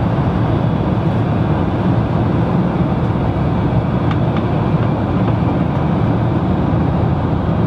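Steady airliner cabin noise: the even rumble of the engines and airflow, heaviest in the low range, with a faint tick or two.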